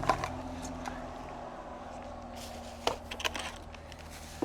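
Light handling noises while assembling an e-bike: a sharp click just after the start and another about three seconds in, with small crackles between, over a steady low hum.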